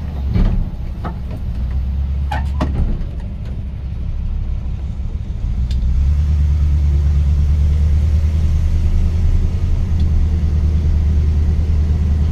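1977 Dodge Adventurer's 440 big-block V8 running as the truck gets under way, a steady low rumble that grows louder about five and a half seconds in. A few sharp clicks in the first three seconds.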